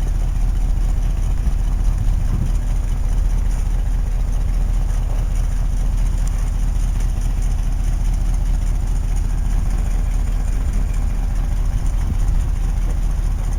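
Ice cream truck engine idling, a steady low rumble that neither rises nor falls.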